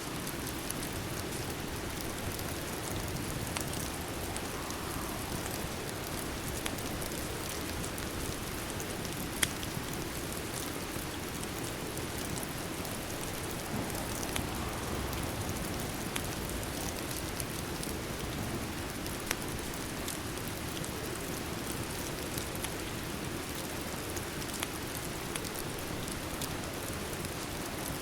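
Steady rain falling, with scattered sharp clicks and pops over it; the loudest comes about a third of the way through.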